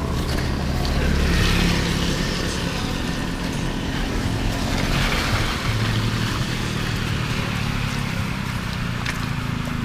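A motor vehicle's engine running over a steady hiss, its sound swelling about a second and a half in and again around five seconds.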